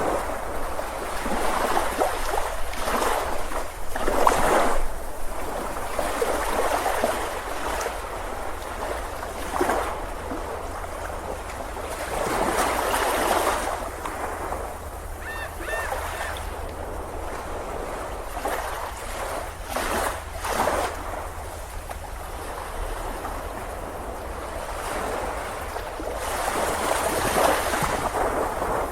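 Ocean surf washing onto a beach, swelling and falling back in irregular surges every few seconds over a steady low rumble. About halfway through comes a brief faint high chirp.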